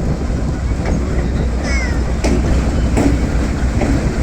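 American-built diesel-electric locomotives running with a steady low engine rumble, with a few sharp clacks of wheels over rail joints.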